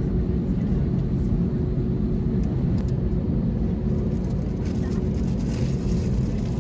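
Steady cabin noise inside an Airbus A321neo airliner: a continuous low rumble with a faint steady hum.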